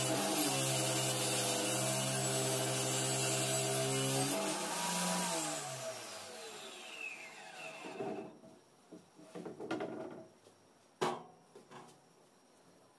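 Circular saw mounted in a homemade table saw running, then switched off: its pitch rises briefly about four seconds in and falls away as the blade spins down. Light knocks and one sharp knock follow as it stops.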